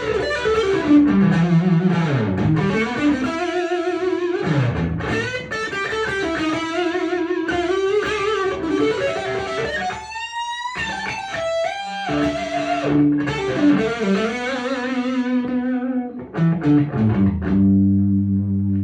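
A 1997 Korean-made Epiphone Les Paul Custom electric guitar played through an amplifier. It plays a lead melody with string bends and vibrato, then settles on held low notes near the end.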